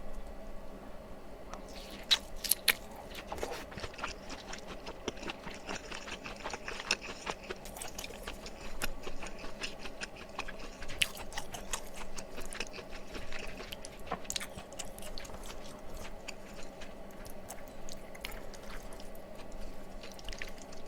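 Close-miked chewing of tteokbokki rice cakes in sauce: wet, sticky mouth sounds with many small clicks, and a few sharper clicks about two seconds in.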